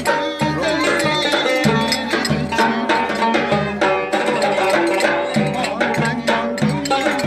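Turkish folk dance tune (oyun havası) played by a small band: a pitched melody instrument over a steady hand-drum rhythm.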